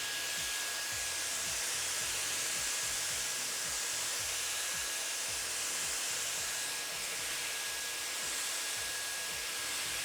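M Ionic Hair Dryer with its air-curling barrel attachment running steadily. It makes an even rush of blown air with a thin, steady high whine from its high-speed motor.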